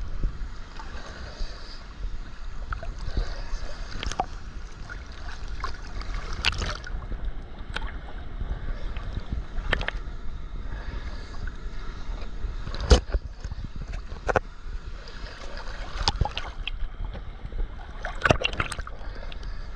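Steady rushing noise of water at Düden Waterfall with a low rumble, broken every few seconds by sharp clicks or knocks, the loudest about two-thirds of the way through.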